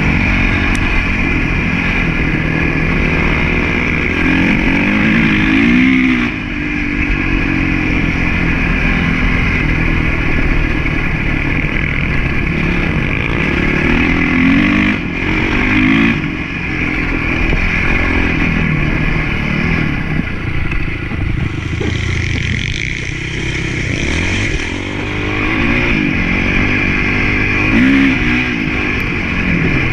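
Motocross bike engine revving up and down over and over, its pitch climbing and dropping every few seconds as the rider works the throttle.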